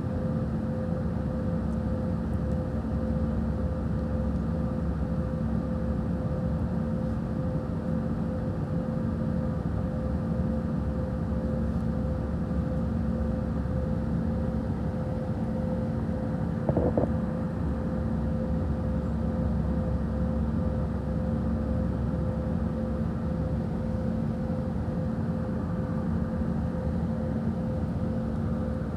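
Steady aircraft cabin noise in flight: a constant low rumble of engines and airflow with a steady hum. A brief knock about two-thirds of the way through.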